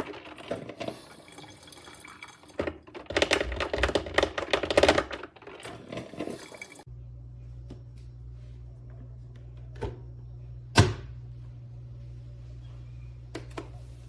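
Drip coffee maker gurgling and sputtering in irregular bursts as it brews. About seven seconds in, the sound cuts off abruptly to a steady low hum with a few sharp clicks, one of them loud, about two-thirds of the way through.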